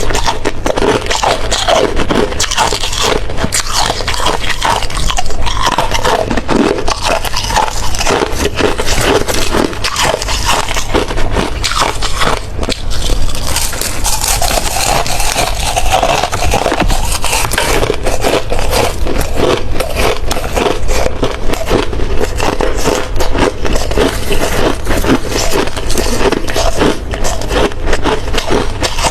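A person biting and chewing hard ice close to the microphone: dense, continuous crunching and cracking with many sharp snaps.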